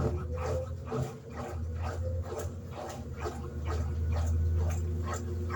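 Electrolux LED14 top-loading washing machine running: a steady low motor hum with a fast, even run of clicks or knocks, about four a second.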